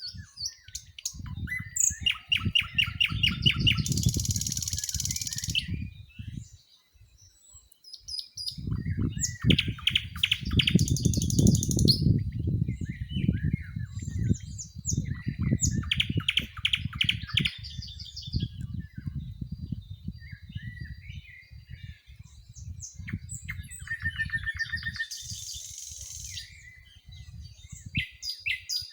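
Several songbirds singing, with repeated chirps and rapid trills from more than one bird. Under them runs a low rumble that comes and goes, loudest around four and again around eleven seconds in.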